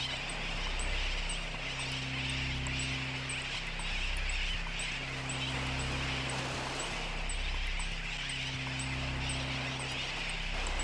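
Home-made experimental soundtrack: a low droning chord that pulses on and off every second or two under a steady hiss, with faint, evenly spaced high ticks about three times a second.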